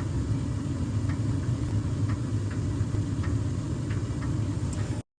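Gas furnace running with its burners firing: a steady low hum from the inducer fan and flame, with a few faint ticks, cutting off suddenly near the end.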